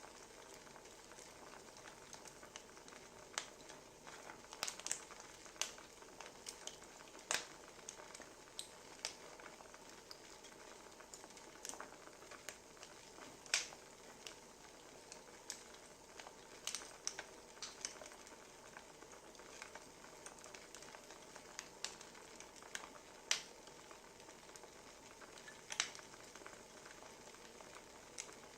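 Wood fire crackling: a soft steady hiss with irregular small pops and snaps, and now and then a louder snap.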